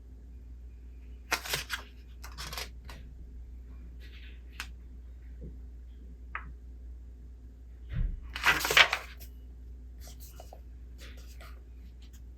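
Paper rustles of book pages being turned: two short rustles about a second and two and a half seconds in, a couple of faint taps, and a louder, longer page turn near eight seconds, over a steady low room hum.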